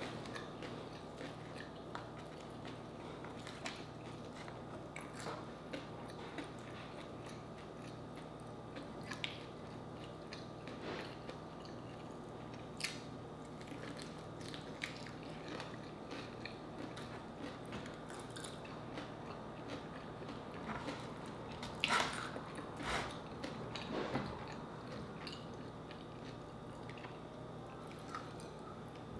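Close-up eating sounds: biting into and chewing breaded fried chicken, with short crackling crunches scattered throughout. The loudest bites come about three quarters of the way through.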